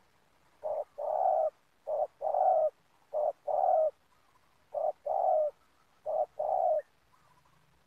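Spotted dove cooing: five phrases in a steady rhythm, each a short low note followed by a longer one, about one phrase every second and a half.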